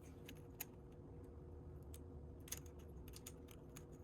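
Faint, irregular clicks and taps of small plastic Lego pieces being handled and pressed together, over a steady low hum.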